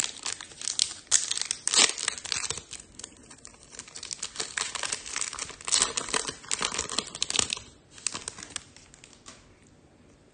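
Foil trading-card pack wrapper being torn open and crumpled, crackling in irregular bursts for about eight seconds and then stopping.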